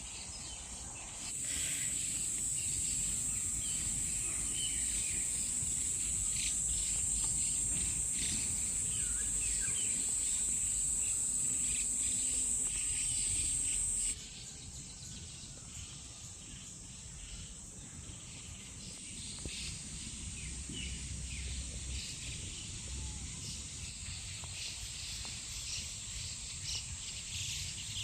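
Woodland insects droning in a steady, high-pitched chorus, with scattered bird chirps over it. The drone grows louder about a second in and drops back suddenly about halfway through.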